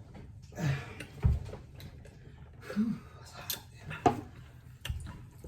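Eating sounds in a small room: a few scattered knocks and low thumps from handling food and containers, with two brief vocal sounds from the eaters.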